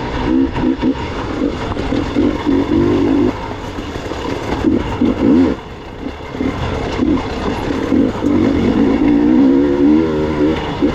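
Gas Gas EX 300 two-stroke enduro motorcycle engine being ridden, its revs rising and falling constantly with the throttle, with a brief drop off the throttle about five and a half seconds in.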